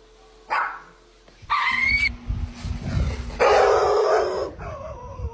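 A dog barking, several separate barks with a longer rough stretch about three and a half seconds in.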